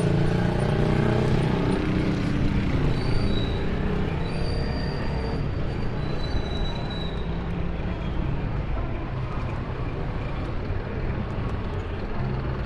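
City street traffic: a steady rumble of passing vehicle engines. In the first couple of seconds a pitched engine note passes, falling slightly in pitch, and faint high squeals come a few seconds in.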